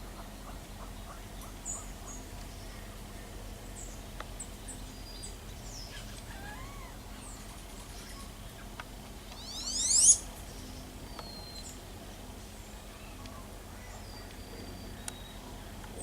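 Small birds chirping and calling: scattered short, high chirps and brief descending calls, with one loud rising sweep about ten seconds in that cuts off sharply.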